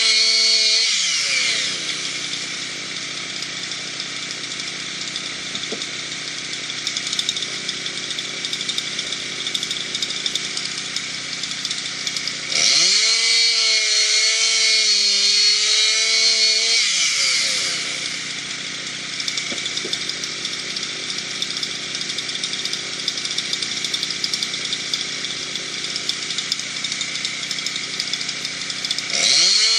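Gas chainsaw cutting through wood in two long cuts. The engine pitch drops and holds low while the chain is in the wood, and rises back to a high, wavering rev between cuts about halfway through and again near the end.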